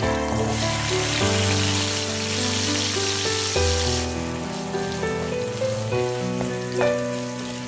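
Background music with held, changing notes, over the hiss of food frying in a pan that swells about half a second in and fades around four seconds.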